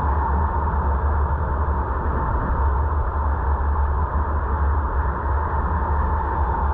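Steady road and wind noise of a car driving, heard from inside the cabin: a deep low rumble with a constant mid-pitched hum over it.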